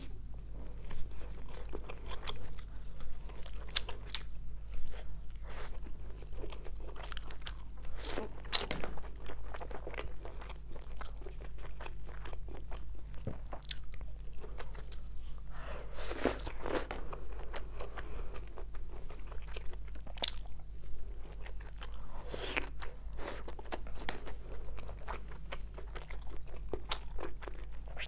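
Close-up chewing and crunchy bites of skewered grilled meat: irregular wet clicks and crunches throughout, with a few louder crunches, over a steady low hum.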